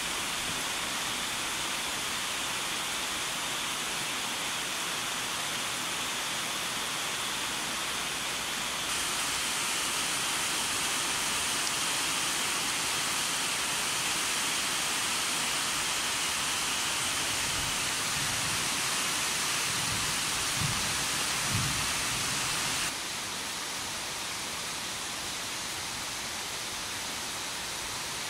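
Heavy rain pouring steadily in a dense hiss. It gets louder about nine seconds in and drops back a few seconds before the end, with a few low thumps shortly before that drop.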